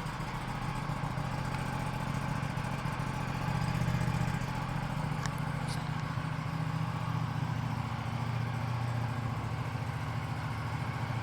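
Aprilia RS 457's parallel-twin engine idling steadily just after a cold start, warming up. Its note swells slightly around four seconds in.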